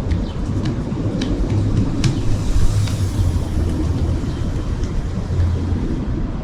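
Steady low rumble of downtown street ambience, with a few light clicks.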